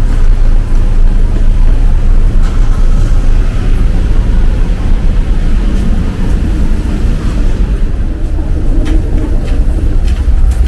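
Street traffic noise: a motor vehicle's engine running close by, heard as a loud, steady low rumble.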